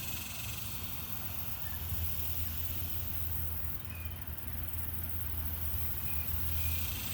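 Cicadas droning as a steady high hiss over a steady low rumble of road traffic, with a few faint short chirps.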